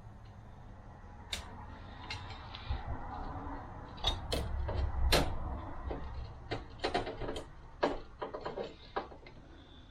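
Steel plates and friction discs of a 42RE automatic transmission clutch pack clicking and clinking as they are handled and stacked on a workbench: irregular light taps and knocks, busiest in the middle.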